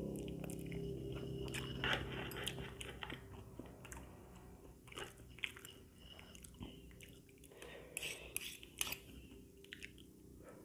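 Close-miked chewing of a mouthful of fried instant noodles, with a few short, sharp clicks of cutlery against the plate.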